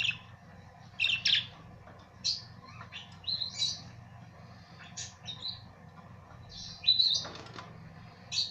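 Budgerigars chirping in short, high bursts every second or so, with the loudest flurry of calls about seven seconds in.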